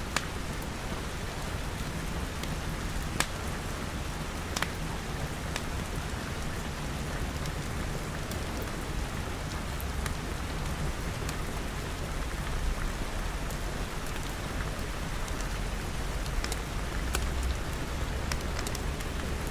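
Steady rain pattering on glass walls and roof, with a low rumble underneath and scattered sharp crackles from a wood fire.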